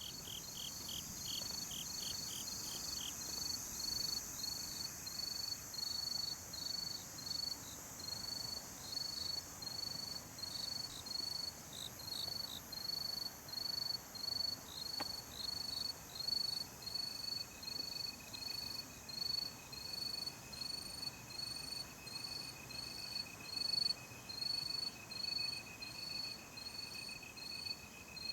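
Crickets and other night insects chirping. One chirps over and over, about one and a half chirps a second, over a high steady insect hiss. A faster pulsing call stops about three seconds in, and a steady trill joins about halfway through.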